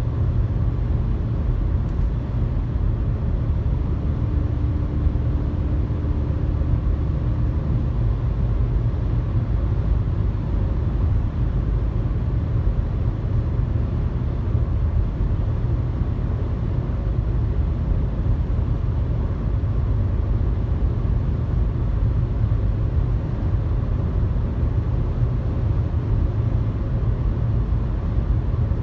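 Car driving on a highway: a steady, low rumble of road and engine noise. A faint steady hum sits on top for a few seconds near the start.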